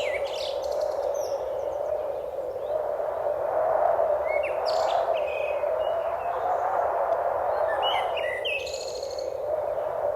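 Songbirds singing in three short phrases of chirps and rising whistles a few seconds apart, over a steady rushing noise that swells and eases.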